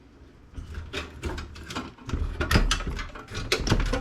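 Irregular clicks, knocks and clatter of parts being handled inside a desktop computer case, getting busier about two seconds in.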